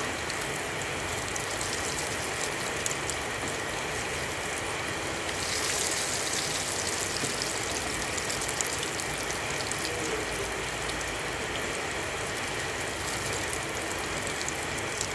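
Potato perkedel (fritters) frying in hot oil in a pan: a steady sizzle full of fine crackles, swelling briefly about six seconds in.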